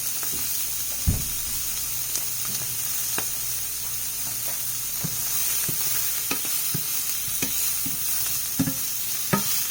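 Shrimp sizzling in oil in a frying pan while being stirred, the utensil knocking and scraping against the pan, with a louder knock about a second in and several near the end.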